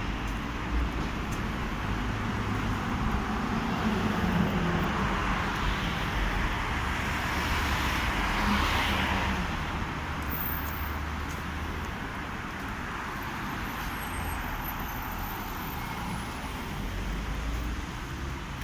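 Street traffic: cars driving past on the road, with a low engine rumble under the noise of tyres. One passes close about halfway through, its noise swelling and then fading.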